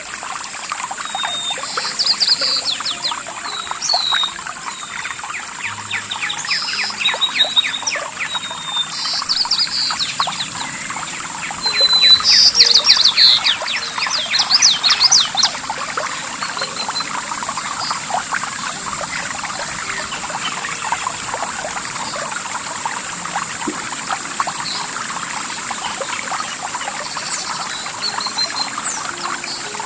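Water trickling and splashing steadily, as in a small stream, with songbirds chirping over it in bursts that thin out after the first half.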